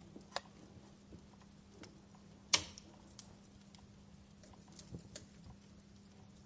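Wood fire in a fireplace crackling: scattered sharp pops and snaps, the loudest about two and a half seconds in, over a faint steady low hum.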